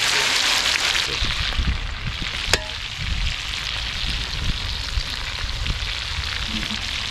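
Chicken frying in oil over a village chulha: a steady sizzle, a little softer after the first second, with one sharp click about two and a half seconds in.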